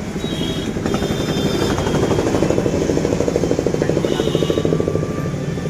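An engine running with a rapid, even thumping beat, swelling a little about a second in and easing near the end.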